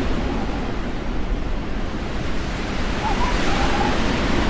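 Strong snowstorm wind buffeting the microphone: a steady, loud rumbling noise. A faint wavering tone comes in about three seconds in.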